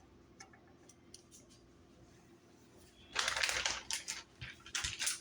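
Crackly rattling of dry croutons being shaken out of a bag, a dense run of clicks and crinkles starting about three seconds in after a few faint clicks.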